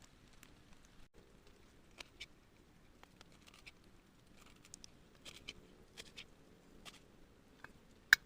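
Scattered light taps and clicks over a faint steady background, with one sharp, louder click near the end.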